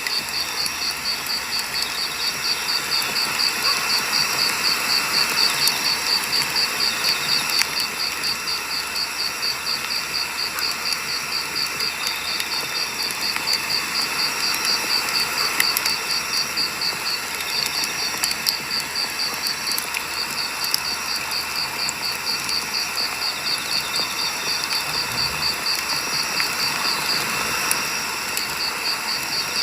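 Firewood burning with a steady hiss and occasional sharp crackles and pops, while crickets chirp in a fast, even pulse that breaks off briefly a few times.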